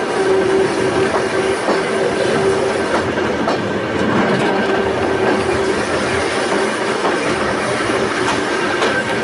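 Volk's Electric Railway narrow-gauge electric car running along its track: continuous rumble and rattle of wheels on rail with scattered clicks, and a steady whine that fades in and out.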